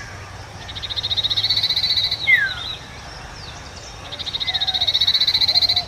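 Common Iora calling: a fast, high trill of about a second and a half that ends in a sharp downslurred note, a 'cheeepow', given twice.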